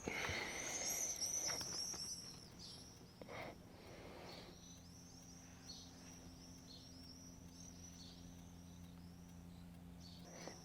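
Small birds chirping in quick runs of short, high, falling notes, over a faint steady low hum. A rustling noise comes in the first two seconds.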